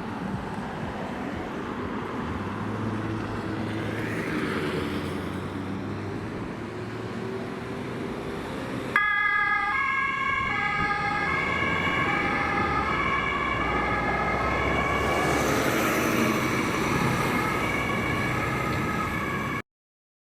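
An emergency car's engine accelerating, then about nine seconds in a German two-tone siren (Martinshorn) switches on abruptly, alternating between two pitches and growing louder as the vehicle passes. The sound cuts off suddenly near the end.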